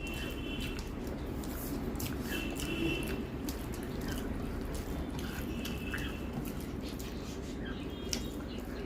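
Faint wet clicks and smacks of someone eating rice and curry by hand, with a few brief high-pitched whines.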